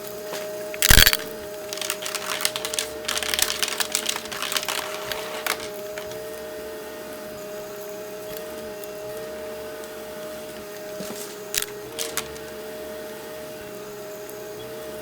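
Vacuum cleaner running with a steady motor hum while picking up crunchy debris. A sharp knock comes about a second in, a few seconds of crackling crunches follow, and two more sharp cracks come later.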